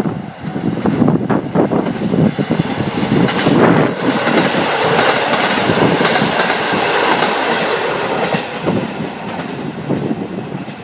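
Diesel train passing close by, its wheels clickety-clacking over the rail joints in a loud rush that dies down near the end.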